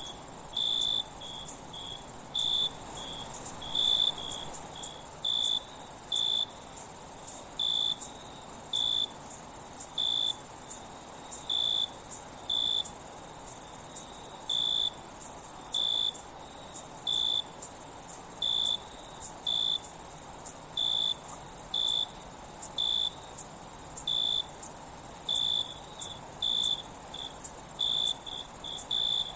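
Night chorus of crickets and other insects: a steady shrill, very high drone, with short lower chirps repeating about once a second.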